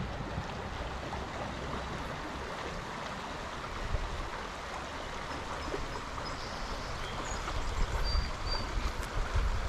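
Small stream flowing: a steady rush of water. Wind buffets the microphone in low gusts that build toward the end, with a few faint high chirps near the end.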